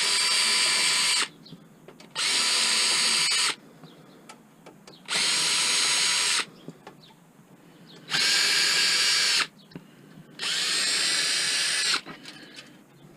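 Power drill/driver running in five short bursts of about a second and a half each, a steady whine that briefly speeds up at the start of each burst, as it backs screws out while a desktop computer is stripped for scrap.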